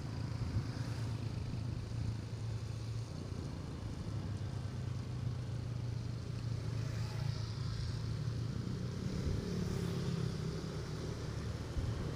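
Motorcycle engine running steadily while riding, with wind rush on the microphone.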